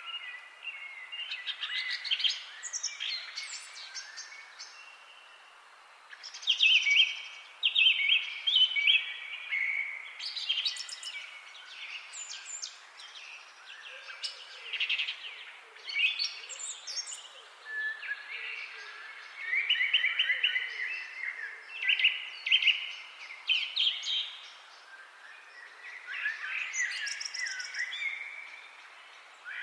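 A chorus of several songbirds singing and chirping, with many short phrases overlapping throughout.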